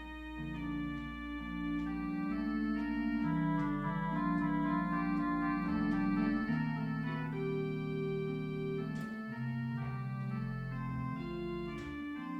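Organ music: slow, sustained chords moving over long held bass notes.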